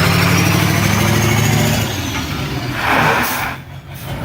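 International 4700 truck's engine revved and held at high revs, with a thin high whine that rises and then falls away; about two seconds in the revs drop back. A short rushing noise follows near three seconds, before the engine settles quieter.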